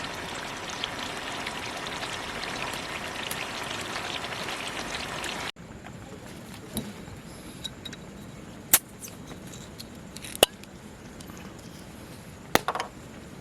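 Liquid pouring in a steady stream, cut off abruptly about five seconds in, followed by a quieter stretch with three sharp clicks.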